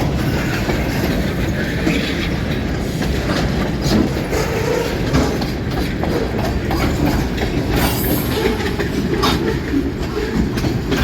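Freight cars rolling past at close range, gathering speed: a steady rail rumble with wheels clacking irregularly over the track and a brief high wheel squeal about eight seconds in.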